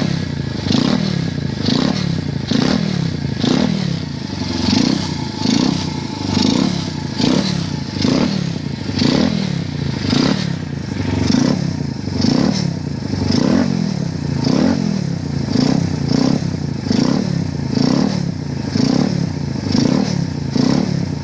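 125 cc pit bike's single-cylinder engine revved again and again, each rev falling back, about three revs every two seconds.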